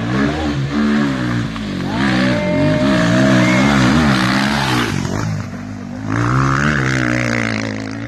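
Rally-raid motorcycle engine revving hard, its pitch rising and falling over and over. It is loudest around the middle and surges again near the end.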